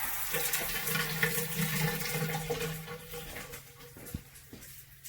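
Shower water spraying and splashing out of a leaking diverter connection, a NearMoon diverter valve stacked on an existing diverter, with a faint steady hum in the pipes. The flow fades away over the last two seconds, with a small click about four seconds in.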